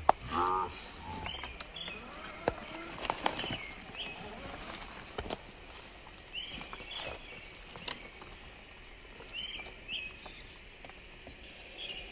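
Woodland ambience: a bird gives a short two-note chirping call every few seconds, while an RC rock crawler's tyres and chassis click and knock over loose creek-bed stones.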